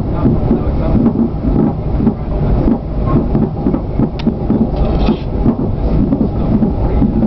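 Passenger train running at speed, heard from inside the carriage: a steady low rumble with irregular knocks and rattles, and one sharp click about four seconds in.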